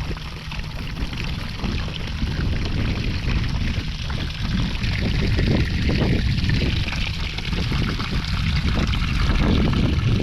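Water pouring and splashing steadily, with a strong low rumble underneath.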